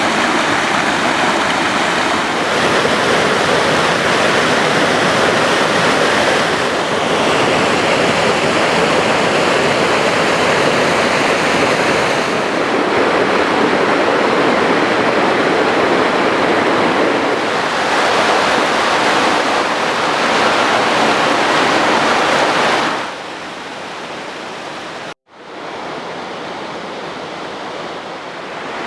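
Steady loud rushing noise. It drops to a softer rush about 23 seconds in, breaks off for an instant just after 25 seconds, then carries on softer.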